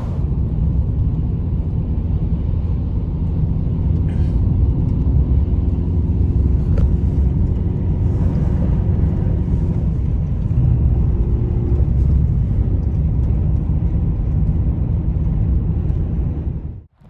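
Steady, loud low rumble with a faint hum over it, cutting off suddenly near the end.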